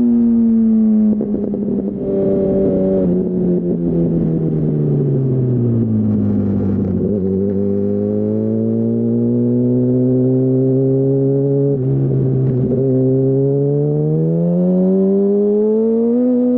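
2008 Yamaha R1's inline-four engine through a Termignoni full exhaust: the revs fall steadily for several seconds, hold low and steady, then climb again near the end as the throttle opens.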